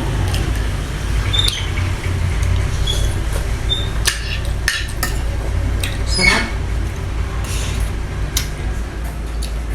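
Close-miked eating sounds: wet chewing and lip smacks with short squeaky chirps and a few sharp clicks, over a steady low hum.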